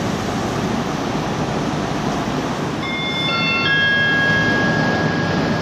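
A First Great Western High Speed Train's coaches rolling past, a steady rumble of wheels on track. About three seconds in, several high-pitched metallic squeals set in at different pitches, one held on longer than the others.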